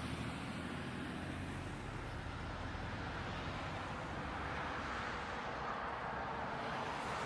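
Steady engine and road noise of a moving vehicle; no impact stands out.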